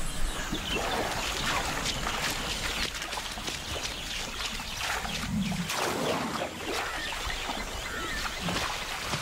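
Asian elephants feeding in a swamp of water hyacinth: rustling, tearing plants and splashing, dripping water as the elephants pull the hyacinth up and shake the roots clean. A brief low sound comes about five seconds in.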